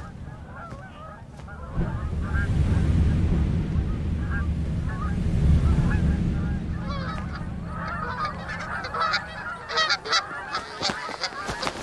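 A flock of geese honking, many short calls overlapping, becoming denser and louder over the last few seconds. A steady low rumble runs under the calls through the middle of the stretch.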